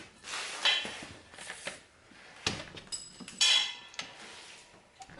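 Metal tools and parts being handled: a few separate clanks and scrapes, some with a short metallic ring.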